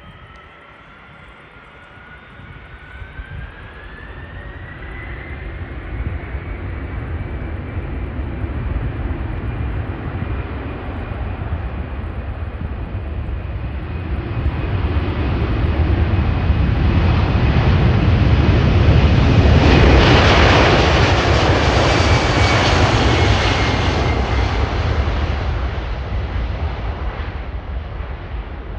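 Boeing 767-300 jet airliner's two engines at takeoff power, with a high engine whine rising in pitch over the first few seconds. The jet noise grows steadily louder as the plane passes, peaks about two-thirds of the way through, then fades.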